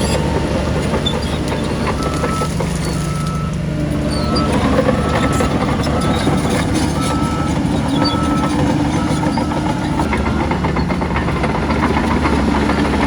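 Diesel engines of a bulldozer and dump trucks running steadily. A backup alarm beeps at an even pace from about two seconds in until near ten seconds.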